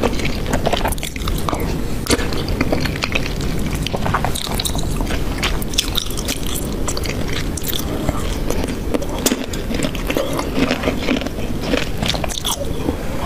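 Close-miked eating sounds: chewing and wet mouth noises of someone eating a saucy rice-and-meat dish, with many short, sharp smacks and clicks throughout.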